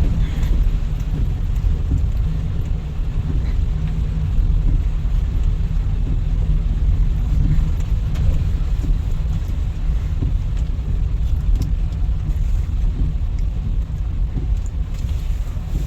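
Steady low rumble of a car driving on a wet road, heard from inside the cabin, with road and tyre noise.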